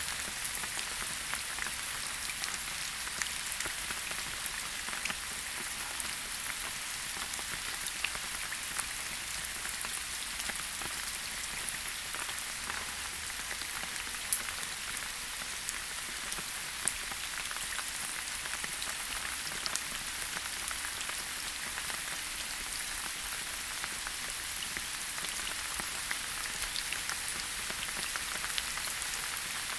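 Steady rain falling in a forest, a constant hiss with many individual drops ticking and pattering on leaves and surfaces.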